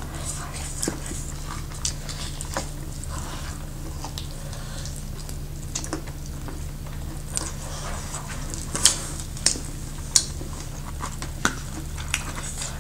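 People eating barbecued chicken wings, pork ribs and momos. The chewing comes with scattered short mouth clicks and smacks, about one a second, over a steady low hum.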